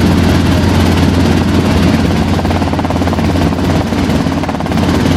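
Helicopter engine and rotor running steadily: a loud, even low hum with a rushing noise over it.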